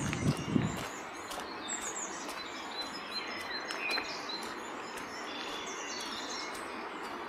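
Small birds chirping and singing, many short high calls and trills over a steady, even background noise. A few low thumps of footsteps come in the first second.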